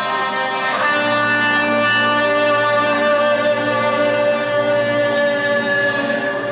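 Live prog rock band music with a held, ringing chord; a new chord is struck just under a second in and sustained.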